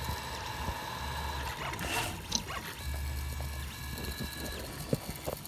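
3D printer's stepper motors whining mid-print, their steady tones changing pitch and switching on and off every second or so as the print head moves from one stretch to the next, with a couple of light clicks.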